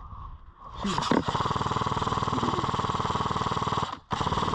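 Airsoft light machine gun firing full-auto: a fast, even mechanical rattle of about three seconds starting about a second in, a brief stop, then a second burst starting near the end.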